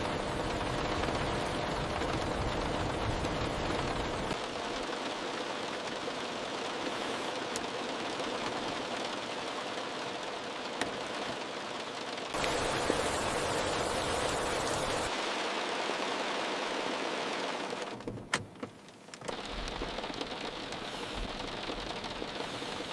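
Heavy rain pattering steadily on a car, a dense rapid patter. Its tone shifts abruptly a few times, and the sound dips briefly about eighteen seconds in.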